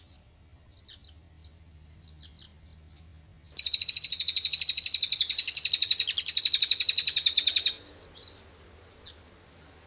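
Cililin bird singing: a few faint short chirps, then about three and a half seconds in a loud, fast, rattling trill ('ngriwik'), many high notes a second, lasting about four seconds and stopping abruptly, followed by a couple of single chirps.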